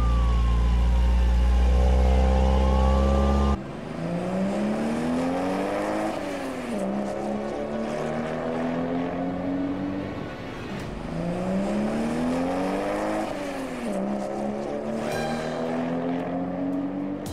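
Dubbed car engine sound effect: a loud low rumble that cuts off suddenly about three and a half seconds in, then an engine revving up in a long rising sweep, dropping back and pulling on at a steady note, twice over.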